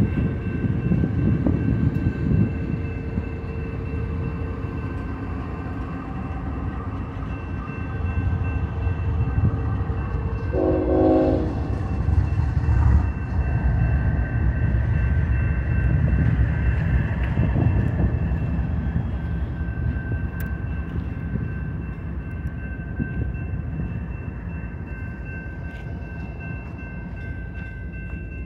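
A BNSF double-stack container train rolling past: its trailing GE diesel locomotives, Dash 9-44CWs and a CSX ES44AH, go by with a steady low rumble, followed by the loaded stack cars. A short train horn blast sounds about ten seconds in, lasting about a second.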